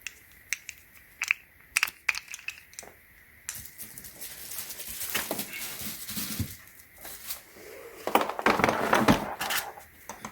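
Hard plastic clicks and knocks as a spinner-wheel part is handled, then crinkling and tearing of packaging as it is unwrapped. The crinkling is loudest from about eight to nine and a half seconds in.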